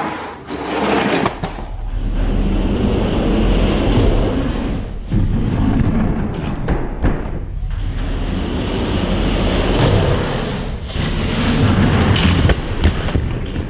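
Diecast toy monster trucks rolling down a race track: a loud, continuous rolling rumble with clacks and knocks, broken by brief lulls about 5, 7.5 and 11 seconds in.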